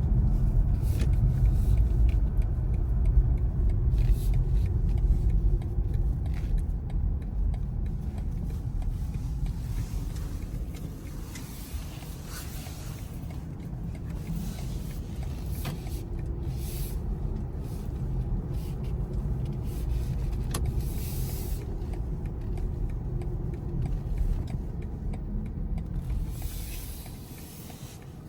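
Road and tyre noise of a BMW i4 M50 electric car on the move: a steady low rumble with no engine note, louder in the first few seconds and dying down near the end.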